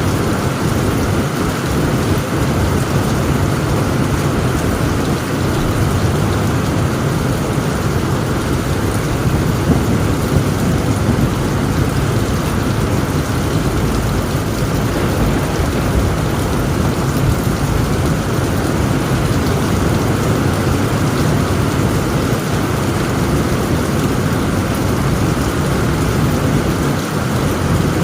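Heavy rain pouring steadily on a tent roof, with a continuous low rumble of thunder underneath.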